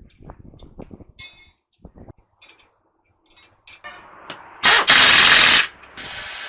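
Metal tools clinking and ticking on the truck's differential, then, about five seconds in, a loud one-second rush from a compressed-air tool, followed by a steadier, quieter hiss of air.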